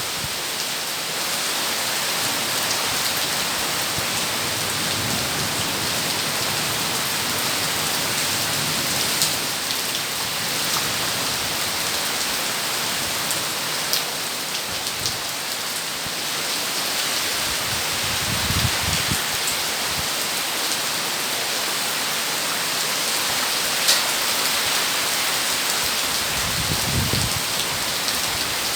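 Heavy rain pouring steadily, with scattered individual drops ticking on a surface. Two short low rumbles come through, one about two-thirds of the way in and one near the end.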